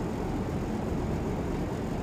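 Jet airliner engines giving a steady, low rumble.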